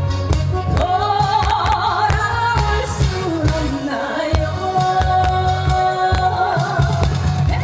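A woman singing a held, wavering melody over a band or backing track, with a steady beat and strong bass.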